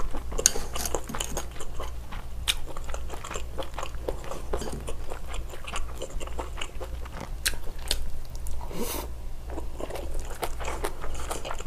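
Close-miked chewing and biting of a spicy stir-fry of octopus, beef tripe and shrimp with rice. Many short wet clicks and smacks follow one another, with a breathy sound about nine seconds in.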